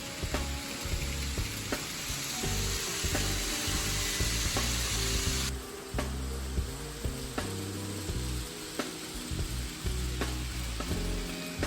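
Model trains running on a layout: a steady hiss with scattered light clicks, under background music. The hiss drops sharply about five and a half seconds in.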